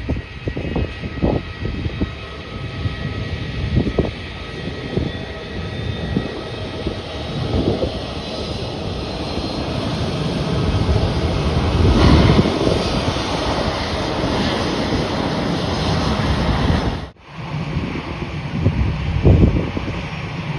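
Jet airliner engines passing, swelling to their loudest a little past halfway with a faint high whine, over gusts of wind on the microphone. The sound cuts out abruptly near the end, leaving wind noise.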